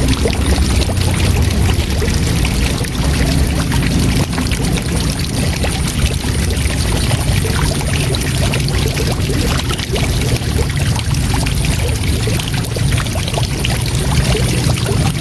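Waterfall: a steady, loud rush of falling water, heaviest in the deep low end, with no breaks or changes.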